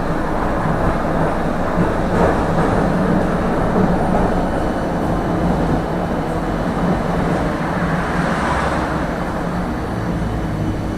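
Tram running along the track, heard from inside the car: a steady rumble of wheels on rails with a low motor hum and a few faint clicks.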